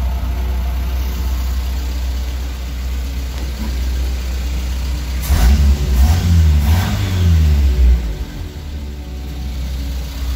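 Renault 12 1289 cc four-cylinder petrol engine, swapped into a VW T2 van, running steadily and then revved up and let back down two or three times about halfway through, before settling again. Heard from inside the cab.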